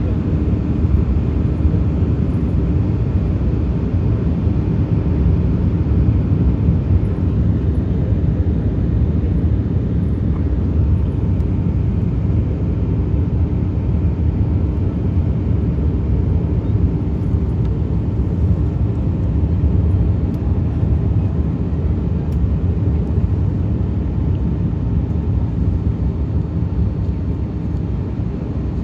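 Airbus A380-800 heard from inside the passenger cabin: a steady, loud rumble of engines and rushing air, with no change in level.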